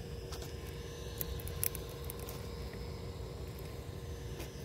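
A few scattered crunches and clicks of railroad ballast stones, with two louder clicks a little past a second in, over a steady low rumble and faint hum.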